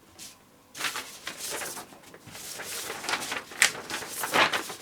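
Handling noises: rustling and light clicks, irregular, starting about a second in, with a louder scrape near the end.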